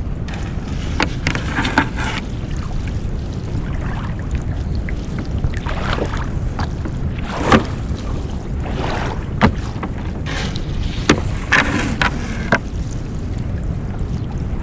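Steady low wind rumble on the microphone aboard a small fishing boat at sea. Over it come a dozen or so irregular sharp knocks and short rustling scrapes as a crab gill net and its catch are handled on deck.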